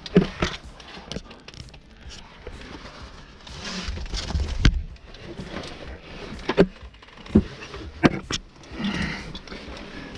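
A caver scrambling up through a rock passage: irregular scraping with half a dozen sharp knocks of boots and gear against rock.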